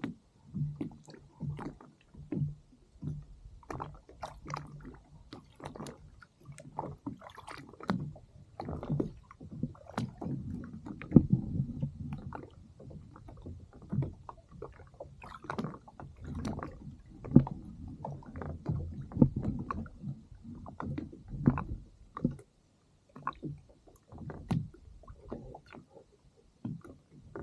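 Water lapping and slapping against the hull of a drifting fishing kayak, with irregular knocks and bumps.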